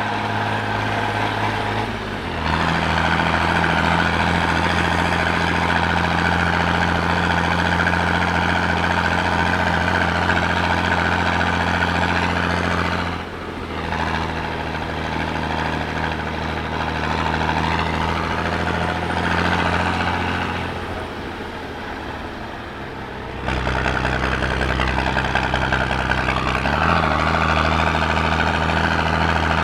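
Six-cylinder, 80 hp diesel engine of an Eicher Wotan I tractor working hard under load uphill, pulling a low-loader with two tractors on it. It runs steadily, with the engine note briefly dropping about 13 seconds in, easing off again around 21 seconds in, and pulling strongly again from about 23 seconds in.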